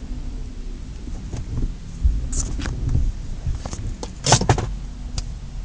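BMW 323Ci engine running at a steady idle, with several sharp clicks and clunks over it, the loudest cluster a little past the middle.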